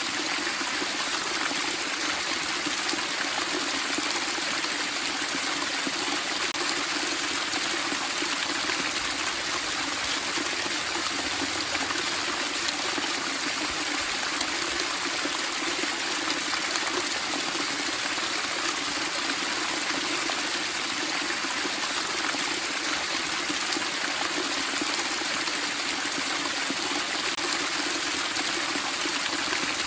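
Water babbling and splashing in a steady, unbroken rush with no pauses or changes.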